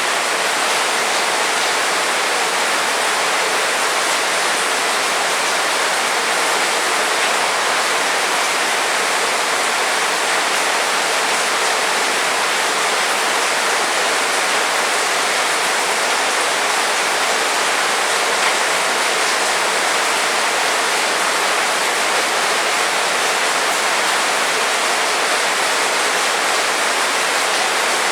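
Heavy rain falling steadily, an even hiss with no thunder or other events.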